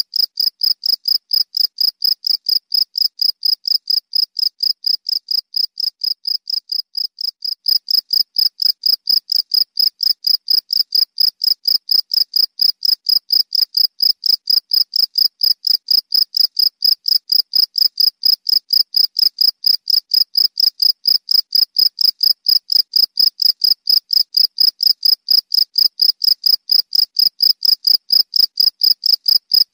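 Cricket chirping: a high-pitched, steady run of rapid chirps, about four a second. The chirping gets a little louder about eight seconds in.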